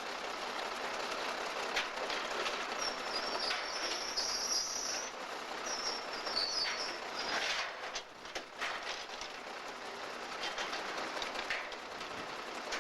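Railroad freight cars rolling slowly on the track, with scattered clicks and clanks and, a few seconds in, two stretches of high-pitched wheel squeal.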